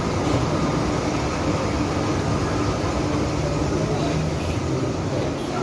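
Train running with a steady rumble and a faint continuous hum.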